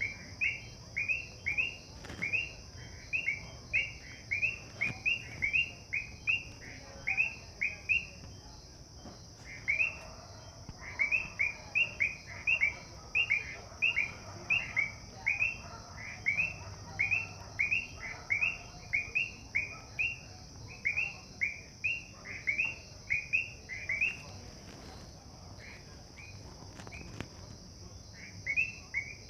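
Evening chorus of frogs from nearby ponds: a steady high-pitched trill, with runs of short falling chirps about two or three a second that pause now and then.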